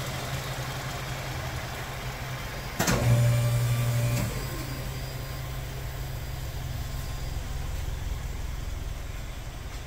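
Exhaust of a 2016 Hyundai Elantra 1.8 naturally aspirated four-cylinder through an aftermarket single-canister (Thunder SC-type) muffler, idling steadily. About three seconds in the throttle is blipped once; the revs jump, hold for about a second and a half, then fall back to idle.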